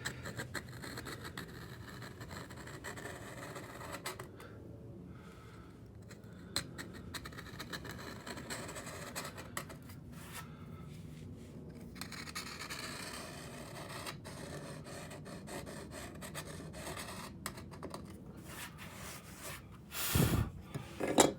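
Multi-tool blade scraping and cutting old caulking out of teak deck seams, in uneven stretches with short pauses, and a louder knock near the end.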